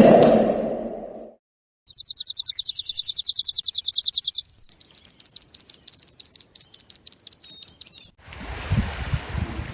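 A small songbird singing: a fast, high, even trill of about two and a half seconds, then a run of quick repeated high notes for about three and a half seconds. A low sound fades out in the first second, and wind rumble on the microphone takes over near the end.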